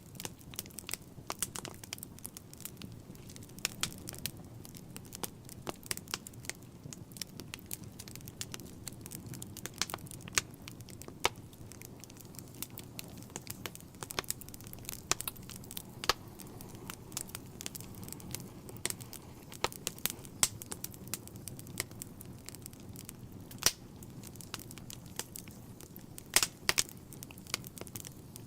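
Wood fire burning in a fireplace: irregular sharp crackles and pops, several a second, over a low steady rumble of flame, with a few louder pops near the end.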